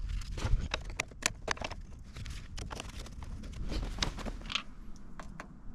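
Irregular clicks, knocks and crunches of someone walking and handling gear, over a steady low rumble.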